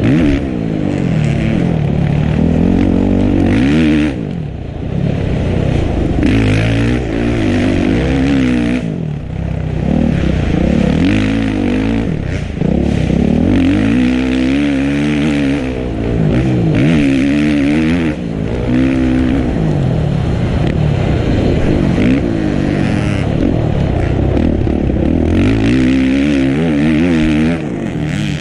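Dirt bike engine being ridden hard around a motocross track, revving up and dropping back over and over as the rider accelerates, shifts and backs off.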